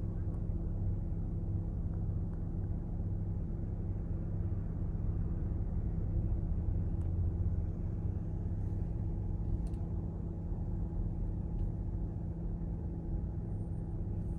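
A motor vehicle's engine idling with a steady low hum, joined by a few faint clicks.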